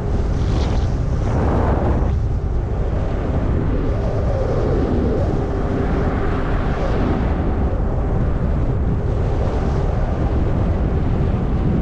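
Wind buffeting the microphone of a moving e-bike rider: a steady, loud low rumble.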